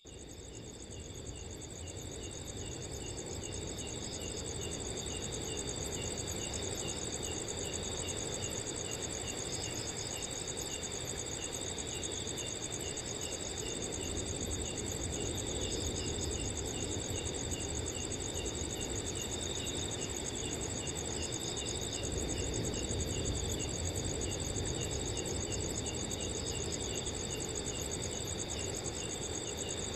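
Several crickets chirping and trilling together, one with a steady run of evenly spaced chirps, over a low rushing wind. The sound fades in over the first few seconds.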